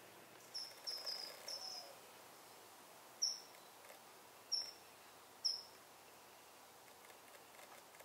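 Small songbird giving short, high chirps: a quick run of four about half a second in, then three single chirps spaced about a second apart, over a faint outdoor hiss.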